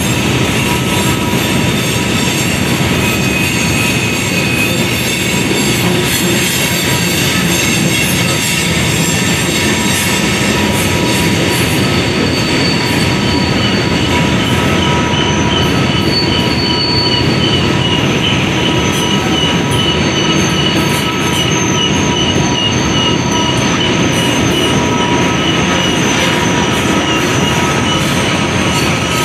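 Freight train of covered hopper cars rolling steadily past on a sharp curve, a rumble and clatter of wheels with flange squeal in several steady high tones; from about halfway a pulsing squeal joins in.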